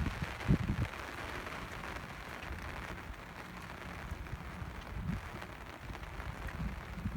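Steady rain falling, an even hiss, with a few short low thuds about half a second in and again around five seconds in.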